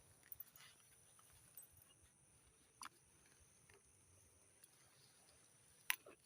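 Near silence, with a faint high hiss and a few scattered faint clicks or taps, the sharpest almost six seconds in.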